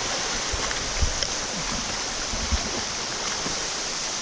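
Waterfall rushing steadily, a dense continuous hiss of falling water, with a few brief low bumps about a second in and again around two and a half seconds in.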